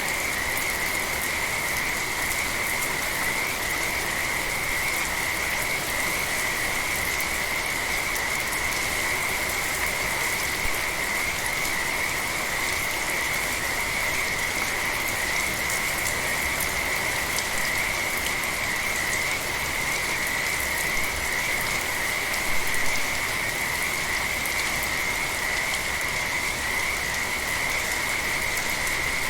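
Frogs calling in a continuous chorus, a steady unbroken trill, over light rain falling.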